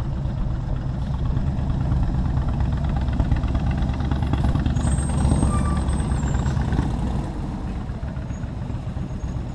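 Motorcycle engine and city traffic heard from on the bike, a steady low rumble that swells for a few seconds and eases off about two-thirds of the way in.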